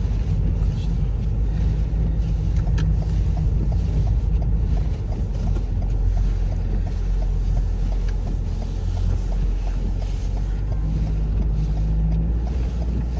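Steady low rumble inside a car's cabin with the engine running, and a light regular ticking at about three a second through much of it.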